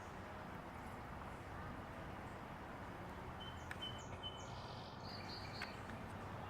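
Steady outdoor background hiss with a few faint, short bird chirps a little past halfway, and a couple of faint sharp taps.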